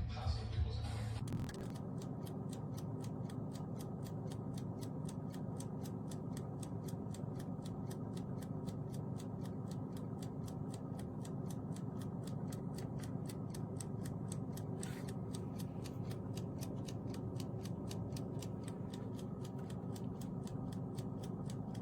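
Cuisinart convection toaster oven running: a steady low whir with the even ticking of its mechanical timer, about three ticks a second.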